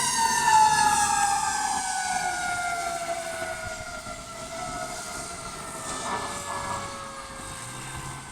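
Fire engine siren winding down, its pitch gliding slowly lower as it fades over several seconds.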